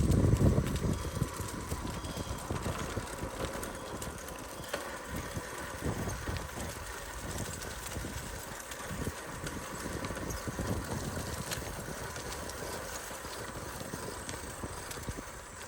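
Bicycle rolling along a rough trail: a steady low rumble with irregular knocks and rattles as it goes over bumps.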